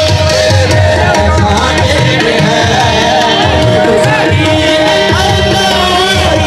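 Live qawwali music: sung vocals with wavering, ornamented lines over a held tone and steady tabla strokes.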